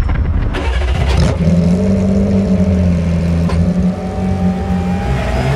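Porsche 911 GT3 R rennsport's flat-six racing engine revving loud, its pitch stepping up and down; it comes in sharply about a second in.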